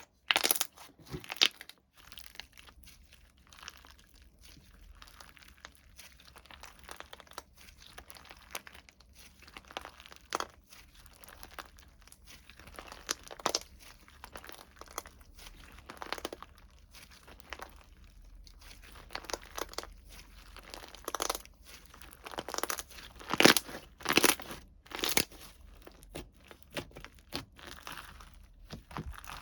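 Hands pressing and stretching slime, giving irregular crunching and crackling pops, with louder pops a little after the middle.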